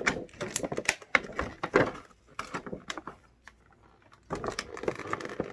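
Plastic packaging crinkling and clicking as a toy figure is peeled out of it by hand, in irregular bursts with a short lull in the middle.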